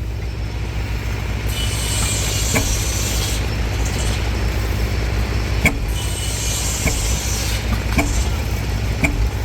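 1919 10-horsepower engine running steadily with a low, even drone and a sharp click or knock every second or so.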